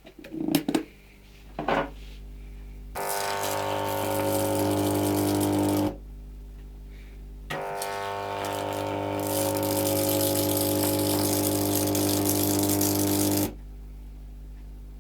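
A few clicks, then a microwave-oven transformer, its current-limiting shunts removed, switched on twice with a high-voltage capacitor, each time giving a loud mains hum with a harsh hiss over it for a few seconds before cutting off abruptly.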